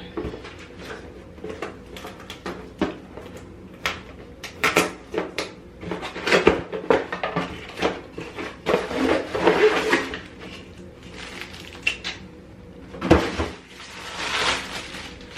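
A hair dryer's cardboard box and plastic packaging being opened and handled by hand: a run of sharp clicks and knocks mixed with bursts of rustling, with one louder knock near the end.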